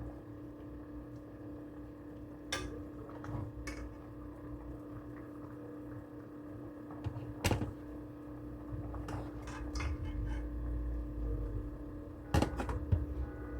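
Pots, lids and utensils knocking and clinking now and then during kitchen work, with a cluster of clatter near the end, over a steady appliance hum.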